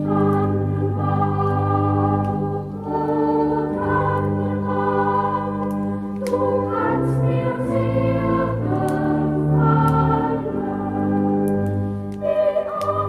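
A choir singing a Christmas song in slow, sustained chords, accompanied by organ.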